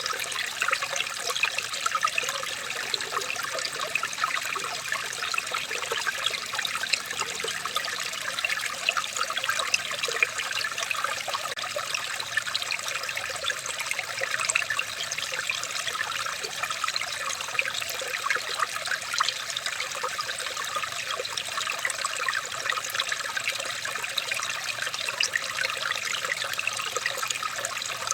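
Running water trickling steadily, dense with tiny splashes and gurgles, with no change throughout.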